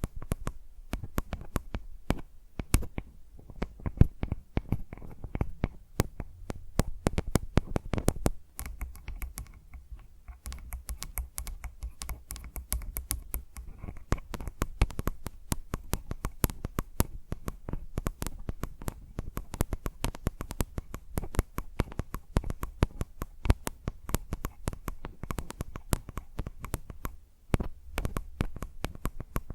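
Fingers tapping rapidly and irregularly on a microphone (a Zoom H4n recorder), each tap a sharp click with a low thud.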